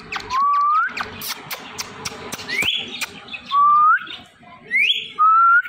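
Ringneck parrot giving five clear rising whistles, each about half a second, two of them sweeping higher than the rest, with short clicks and chirps between the first two.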